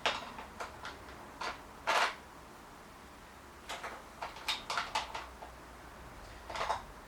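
Hand tools and small metal parts clicking and clinking during bicycle brake work, about a dozen short sharp knocks in irregular clusters, the longest about two seconds in.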